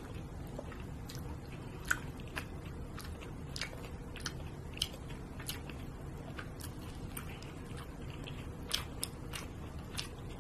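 A person chewing a mouthful of grilled wagyu beef and sushi rice close to the microphone: scattered small wet mouth clicks and smacks, with a few sharper clicks.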